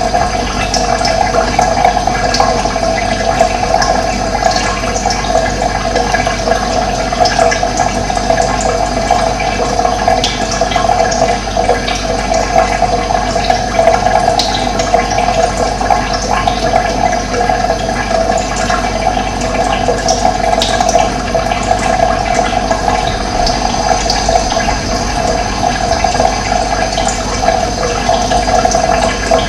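Steady rush of running water, even and unbroken, with short high bird chirps scattered through it.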